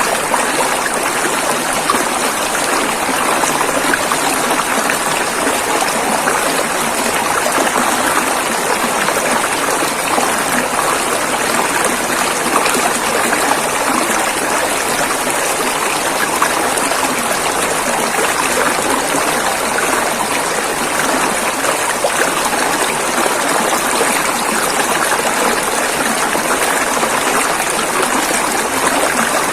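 River water flowing over rocks: a steady, even rushing with a fine splashing texture and no change in level.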